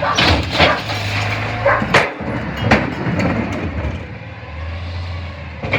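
CNG Freightliner McNeilus rear-loader garbage truck at work: a steady low engine and hydraulic hum that swells twice, with several sharp clanks and bangs of metal.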